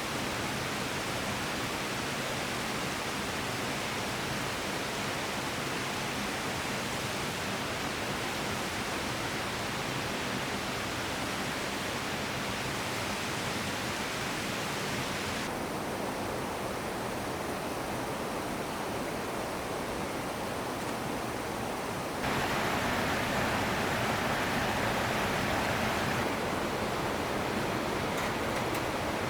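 Steady rushing of a flowing stream, with the level and tone of the water noise changing abruptly three times, getting louder and brighter about two thirds of the way in.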